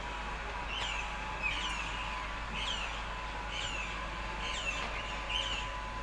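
A bird calling over and over, short chirps often in pairs about once a second, over a steady low background noise.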